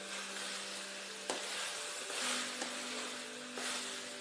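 Sliced ivy gourd sizzling in oil in a metal kadai while a wooden spatula stirs it, the hiss swelling with each stroke. A sharp knock of the spatula on the pan comes about a second in.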